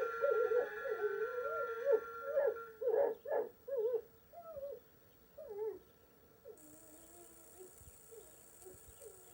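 A dog whining and yelping in short cries that glide up and down in pitch, louder in the first four seconds and fainter after that.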